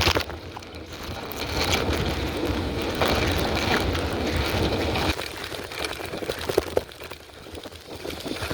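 Wind buffeting the microphone on a fast bicycle ride, with rumble and small rattles from the bike; the low rumble drops off about five seconds in.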